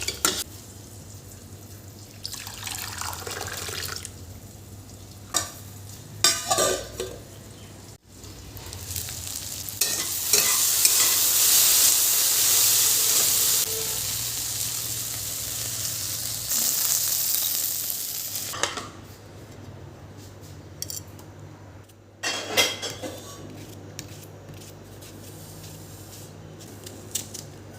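Food sizzling in hot oil in a pan, loud for about ten seconds in the middle before cutting off abruptly. Before and after it, a spoon scrapes and clinks against a cooking pan.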